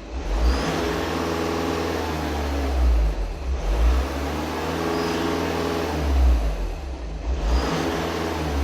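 Seat TDI diesel engine revved up and down about three times, with a short high whistle near the top of several revs. The owner puts the whistle down to the turbo having warped near cylinders 1 and 4.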